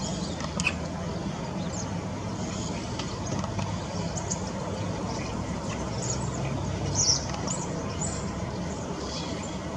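Outdoor garden ambience: a steady low rumble with scattered short, high bird chirps, the clearest about seven seconds in.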